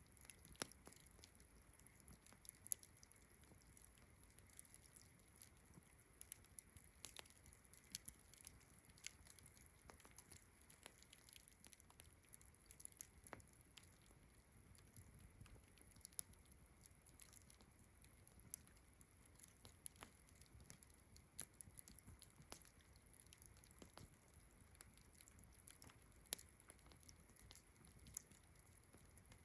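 Faint campfire crackling: irregular small pops and snaps, a few sharper than the rest, over a steady high-pitched chirring of crickets.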